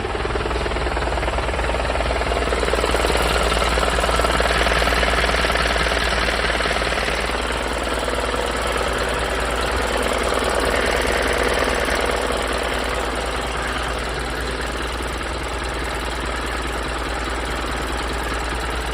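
Medium-duty truck's diesel engine running at idle with a knocking diesel clatter; the sound swells a little in the first half and then settles.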